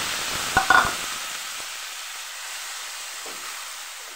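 Grated tomato pulp sizzling in hot peanut oil tempered with cumin and dried red chillies in a non-stick frying pan, the sizzle dying down over a few seconds. A couple of sharp clinks come a little under a second in.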